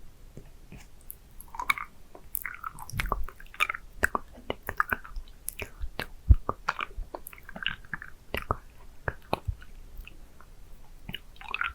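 Close-miked wet mouth sounds of a hard candy being licked and sucked: irregular clicks, smacks and slurps, one sharper click about six seconds in.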